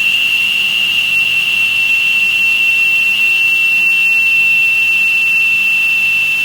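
Stone-cutting machine running, its saw blade giving off one steady high-pitched whine that stays level throughout.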